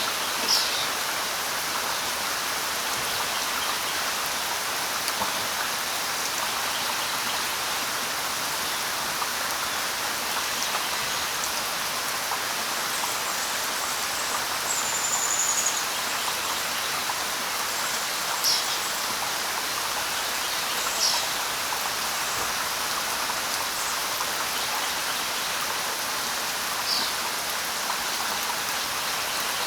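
Light rain falling steadily, with a few short, high bird chirps breaking through, one near the start and several in the second half.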